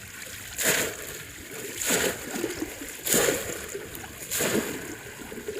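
Shallow water splashing four times in a steady rhythm, about once every second and a quarter, as a bamboo polo fish trap is plunged down into it.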